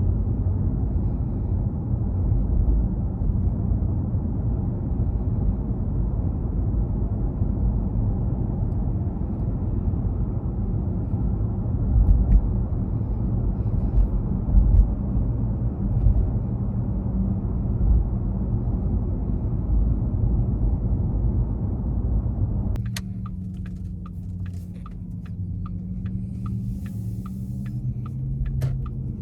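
Steady road and tyre rumble of a Porsche Taycan electric car driving, with no engine note. About 23 seconds in the rumble drops suddenly to a quieter low hum, and a regular ticking about twice a second sets in.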